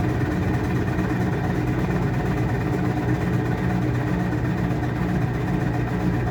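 Washing machine running: a steady drone of motor and drum that holds even throughout, with no pauses or changes.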